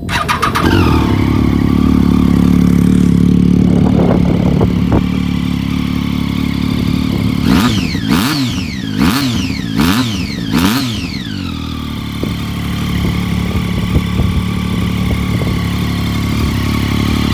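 Triumph Street Triple 675 three-cylinder engine firing up and idling through an aftermarket carbon fibre exhaust. About halfway through, the throttle is blipped four times in quick succession, each rev rising and falling, before the engine settles back to a steady idle.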